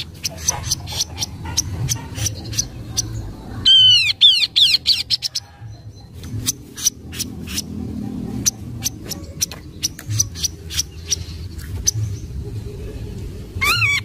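Kaso-kaso bird (chestnut-capped babbler) calling: a steady run of sharp chips, broken about four seconds in by a loud, rapid series of curved whistled notes, with another such series starting near the end.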